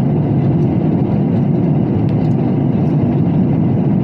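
Steady roar of an airliner cabin in flight: jet engine and airflow noise, low and unchanging.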